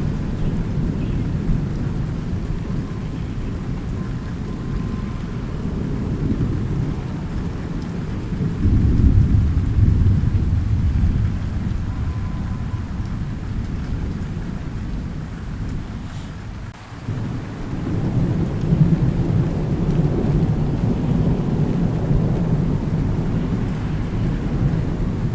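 Thunder rumbling continuously over steady rain. A louder peal swells in about a third of the way through, and the rumble dips briefly a little past the middle before building again.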